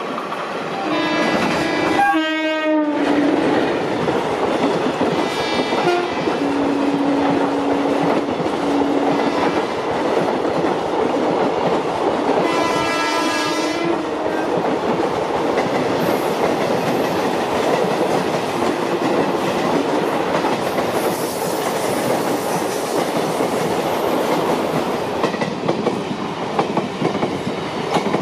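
Indian Railways express train passing close and fast, its coach wheels rattling steadily over the rail joints. The electric locomotive's horn sounds near the start, a lower note follows briefly about a quarter of the way in, and the horn sounds again about halfway through.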